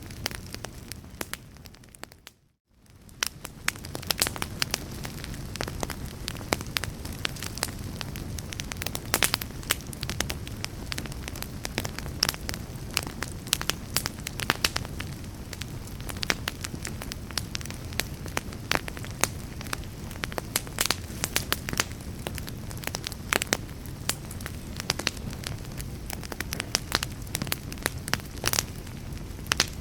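Crackling fireplace fire: a steady low rush of flames with frequent sharp pops and snaps. About two seconds in, the sound fades out briefly to near silence and comes back.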